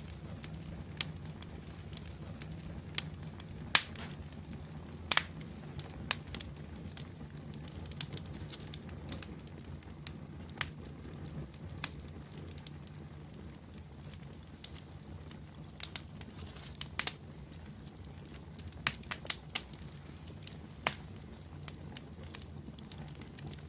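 Open wood fire burning: a steady low rumble of flames with irregular sharp crackles and pops from the burning wood, a few standing out louder than the rest.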